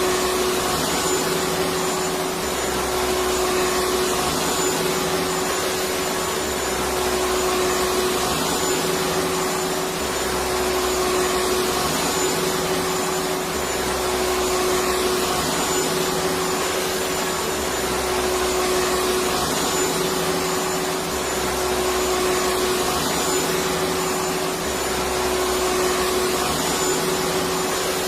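Electric vacuum cleaner running steadily: an even rushing whir with a steady hum, its low end pulsing in a regular pattern about every two seconds.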